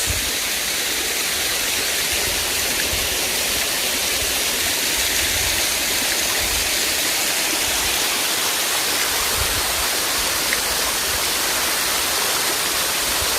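Waterfall rushing steadily as its water splashes down, with occasional low rumbles underneath. The falls carry only a light flow after little rain.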